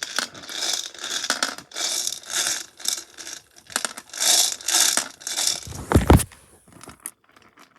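Repeated bursts of crinkling, rustling handling noise, like a bag or paper being shaken and handled, then one heavy thump about six seconds in.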